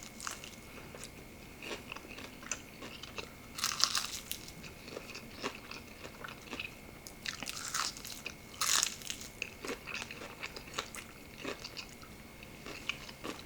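Biting into and chewing a crispy fried chicken drumstick close to the microphone: the batter crunches in irregular bites, with louder crunches about 4 seconds in and again around 8 to 9 seconds.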